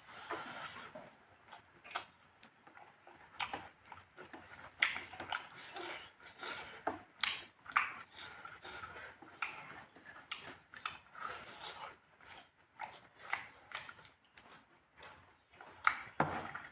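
A person eating spicy fried pork, with irregular, uneven chewing and lip-smacking noises.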